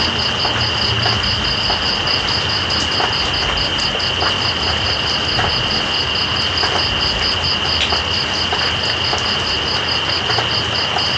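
Night insects calling over steady rain: one insect gives a continuous high trill, and another gives a higher chirp pulsing about four to five times a second.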